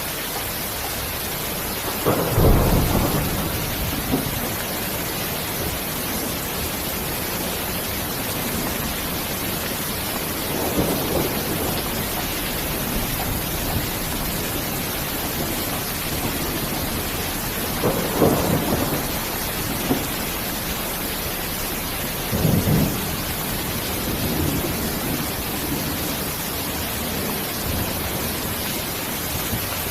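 Steady rain hiss with thunder rolling in low rumbles four times, the first, about two seconds in, the loudest.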